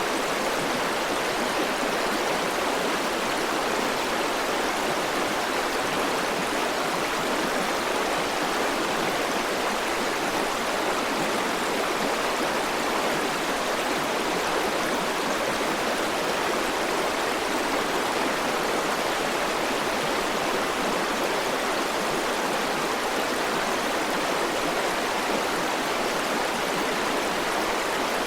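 River water rushing over stones in a steady, even flow, with no change or separate events.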